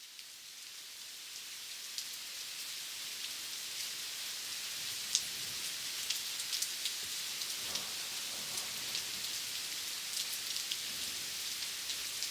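Steady rain falling, with individual drops ticking sharply through the hiss. It swells up over the first few seconds, then holds steady.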